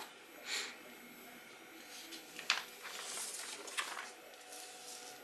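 Glossy paper colour chart rustling and crinkling as it is handled, in a few short bursts, the fullest about three seconds in.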